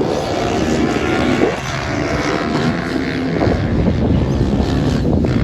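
Several racing motorcycles running at high revs together, their engine notes overlapping, with the pitch rising and falling as bikes pass and change speed.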